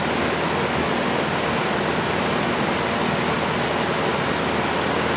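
A steady, even rushing hiss with no distinct events, like a fan or air moving in a workshop.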